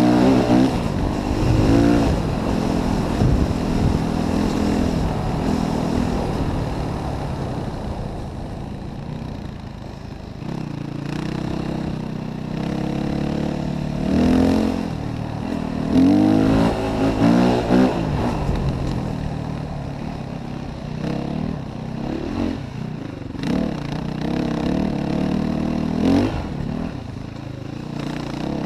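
Yamaha WR450F enduro motorcycle's single-cylinder four-stroke engine being ridden off-road, the revs rising and falling with the throttle, with sharper surges of revving a couple of times in the middle and near the end.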